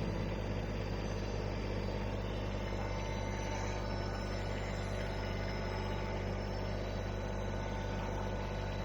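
Diesel engine of an LS MT125 compact tractor running steadily.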